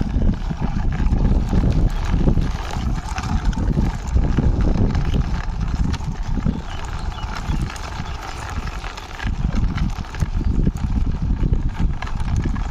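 Plastic toy car pushed by hand along a rough wall, its wheels rolling and rattling with a steady run of small knocks and scraping.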